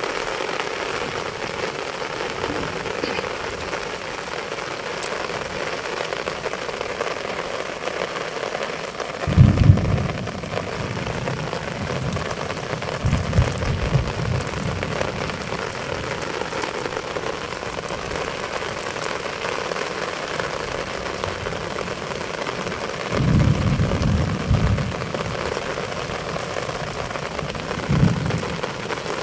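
Steady rain falling, an even hiss throughout, broken by a few brief low rumbles: one about a third of the way in, a couple more in the middle and later, and one near the end.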